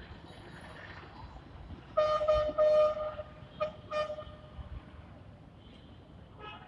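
A vehicle horn honking: one long blast of about a second, then two short toots, over steady background noise.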